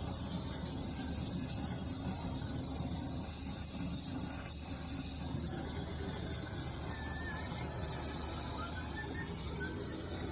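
Brazing torch flame burning with a steady hiss and a low rumble underneath, broken by one brief dropout just under halfway through.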